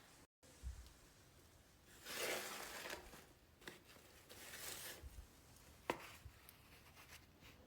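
Faint rustling and scraping of things being handled or brushed against, with two longer swishes about two and four and a half seconds in and a single sharp click near six seconds.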